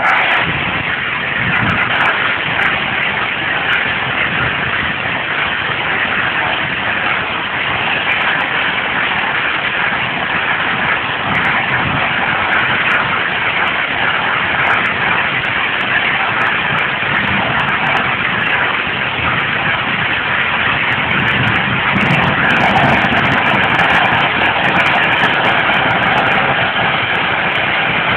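Scaled-down kerosene-fuelled liquid-propellant rocket engine firing: a loud, steady rushing hiss that starts abruptly and holds without a break, with scattered sharp crackles in the later part.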